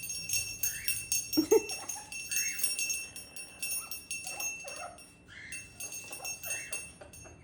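A small toy bell jingling and rattling again and again as a parrot plays with it, with a few short parrot calls mixed in.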